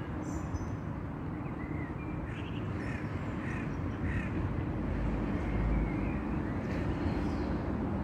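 A bird calling outdoors in a quick series of short calls, about two a second, with a few more near the end, over a steady low background rumble.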